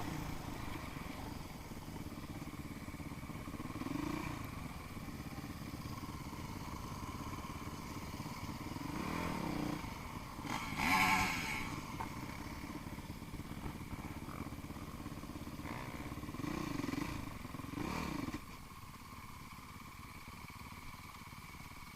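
Off-road motorcycle engines running at a distance, swelling several times as bikes rev or pass, loudest about 11 seconds in, then dropping away about 18 seconds in.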